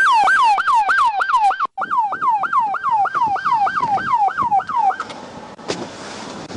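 Police car siren in a fast repeating sweep, about four cycles a second, each jumping up and falling away. It drops out for a moment just under two seconds in and stops about five seconds in, leaving a steady hiss.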